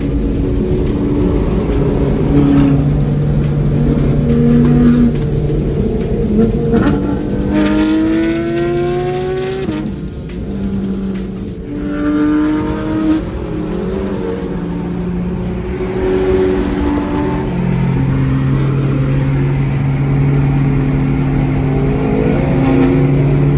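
Car engine running under load over road rumble, its pitch holding steady for stretches and rising clearly as it accelerates about seven to ten seconds in.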